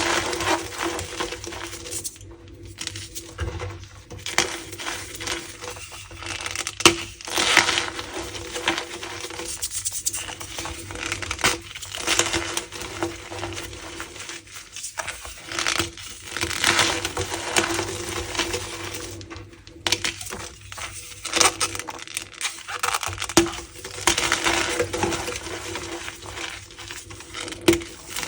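Cornstarch powder being squeezed and crushed by hand, a continuous squeaky crunching with louder crunches now and then and a few brief pauses.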